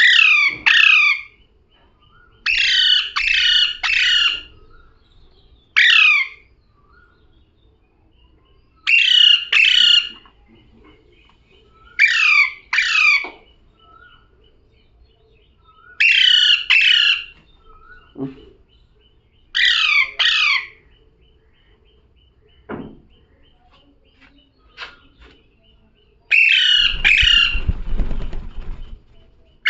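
Pet parrot making repeated harsh squawking calls, each falling in pitch, in quick groups of one to three about every three seconds. Near the end one group comes with a low rumble underneath.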